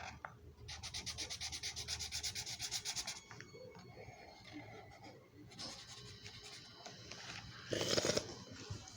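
Marker scribbling on notebook paper. A run of rapid, rhythmic back-and-forth strokes, as when colouring in, lasts for about two and a half seconds, followed by softer, intermittent scratching. A brief, louder rustle comes near the end.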